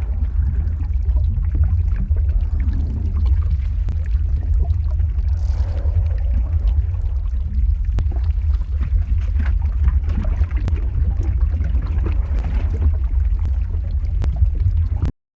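Lava flow ambience sound effect: a steady deep rumble with a hissing wash and scattered small crackles and pops. It cuts out to silence abruptly at the very end.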